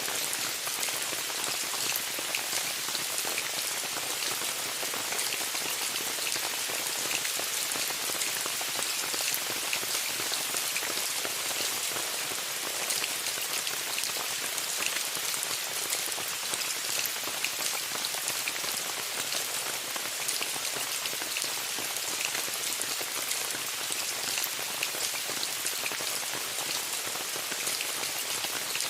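Steady rain pattering on a tent, many separate drops ticking over an even hiss.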